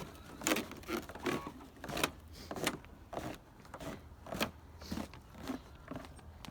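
Footsteps crunching through snow, a walking pace of about two steps a second.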